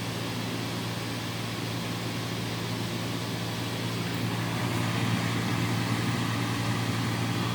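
Steady low hum of a tugboat's onboard machinery (engine or generator) running, with an even hiss of ventilation over it, growing slightly louder about four seconds in.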